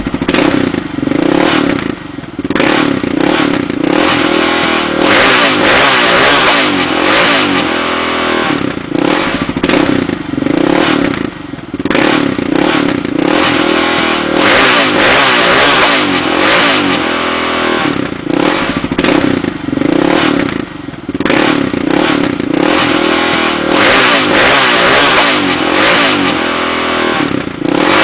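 Yamaha YFM660R Raptor quad's single-cylinder four-stroke engine, fitted with a GPR slip-on silencer, running with its exhaust note rising and falling in repeated revs.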